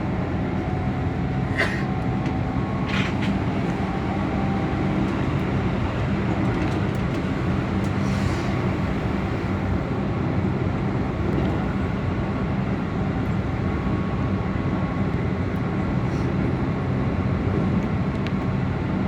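Keihan electric train running along the line, a steady rumble of wheels on rail and running gear, with a few short sharp clicks in the first few seconds.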